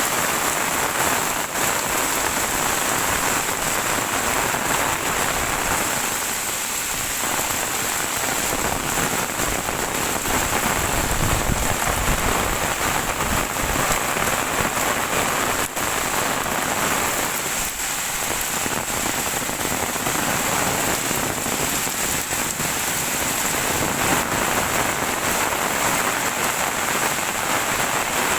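Heavy rain falling steadily and pattering on surfaces, with scattered drop hits and a low rumble swelling briefly about halfway through.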